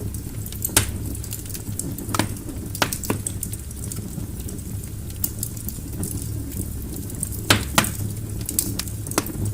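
Wood fire crackling in a fireplace: sharp pops every second or two, the loudest a close pair about seven and a half seconds in, with fine faint crackle and a steady low rumble underneath.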